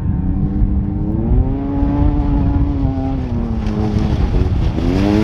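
Off-road race vehicle engine revving under heavy rumble. Its pitch climbs about a second and a half in, drops back around three seconds, then rises sharply near the end as it accelerates.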